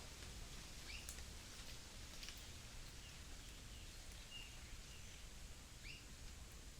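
Faint outdoor ambience with scattered short bird chirps, about one a second, over a steady hiss and a low steady rumble.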